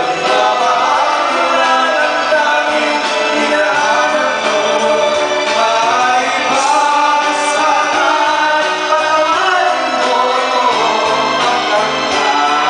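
Duet singing over backing music: voices carry the melody of a sung ballad throughout, with no pauses.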